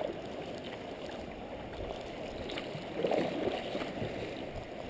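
Water swishing and lapping against a kayak as it is paddled, a little louder about three seconds in.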